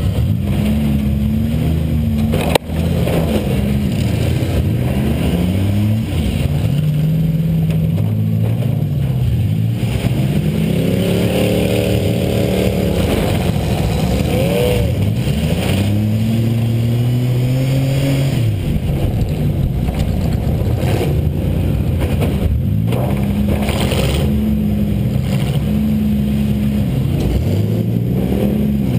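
The Buick LeSabre's 3.8-litre V6 engine revving hard, its pitch rising and falling again and again as the car accelerates and backs off in a demolition derby. A sharp crash of a hit comes about two and a half seconds in, with a few lighter knocks later on.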